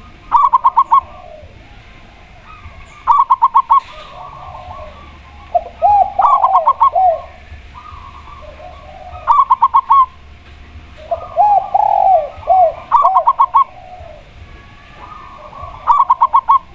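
A zebra dove and a spotted dove calling in turn. A loud, rapid run of five or six short notes comes about every three seconds, and twice a lower cooing phrase of slurred, rising-and-falling notes comes in between, over fainter coos in the background.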